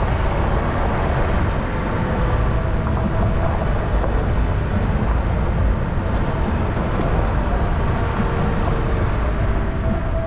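Toyota 4Runner driving along a dirt off-road trail: steady engine and tyre noise, with faint tones that glide slowly in pitch.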